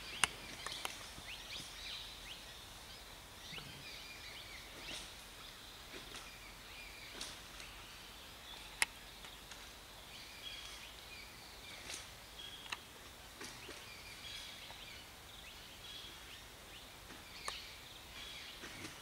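Quiet forest ambience with scattered short bird chirps and calls, and a few sharp clicks, the loudest just before halfway.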